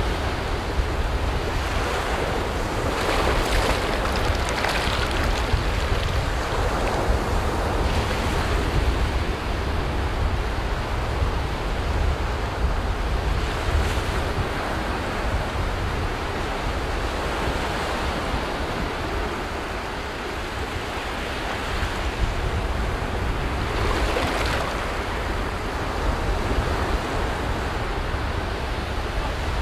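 Ocean surf: waves breaking and washing up the shore, swelling louder several times, over a steady low rumble of wind on the microphone.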